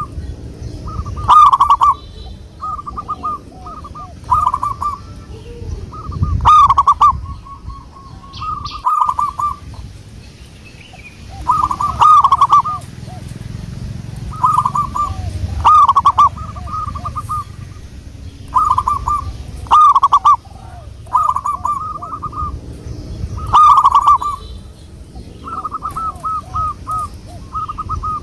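Zebra doves cooing: loud rolling coo phrases repeated every three to four seconds, with fainter coos in between.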